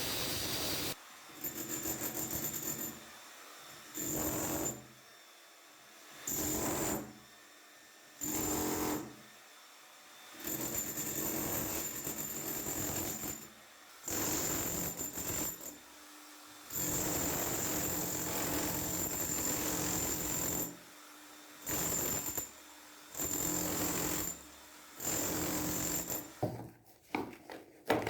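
A power tool run in about ten short bursts of one to four seconds each, each burst at a steady pitch, with short pauses between them.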